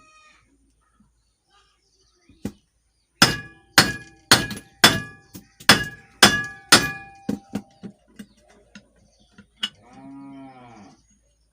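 Hammer blows on metal, about two a second with a ringing note, driving the ball bearing out of a ceiling fan's housing. About nine hard strikes give way to a few lighter taps. Near the end comes a short, low animal call.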